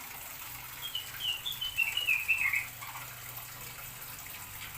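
A small bird in the aviary calling: a quick run of chirps that step down in pitch, starting about a second in and lasting about two seconds, over a faint steady hum.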